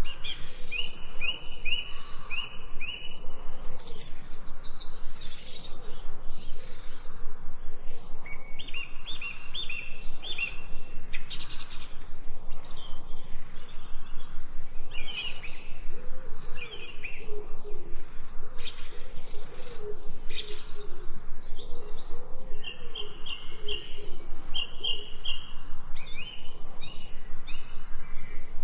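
Several forest songbirds singing, with quick phrases of short, high chirping notes repeated again and again. A lower, wavering call joins in the middle.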